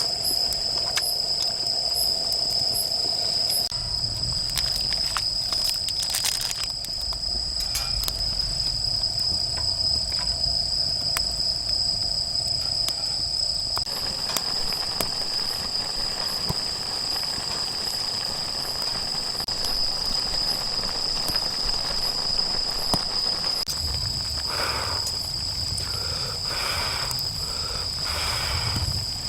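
Grass insects and crickets trilling steadily in a continuous high-pitched chorus, with a lower insect tone dropping out about halfway and scattered faint crackles from a wood fire.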